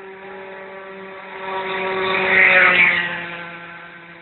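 Exhaust of an Evo II car fitted with a Roost exhaust running at a steady pitch, with a louder swell of exhaust noise that builds about a second and a half in, peaks, and fades away again.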